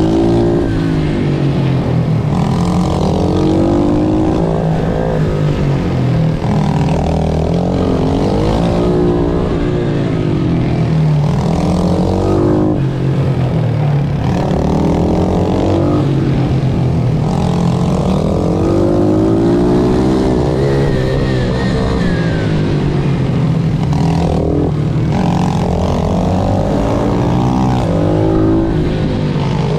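Racing pit bike engine revving up and dropping back over and over, climbing in pitch as it accelerates and falling off as it slows, every two to three seconds, over a steady low drone.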